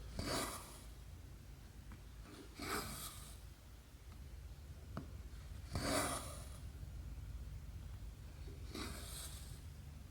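Embroidery thread pulled through cross-stitch fabric: four short rasping swishes, one about every three seconds, over a steady low hum.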